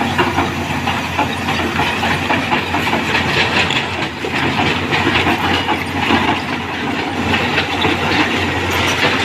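Heavy machinery running: a steady hiss with dense, rapid clatter and a low hum underneath.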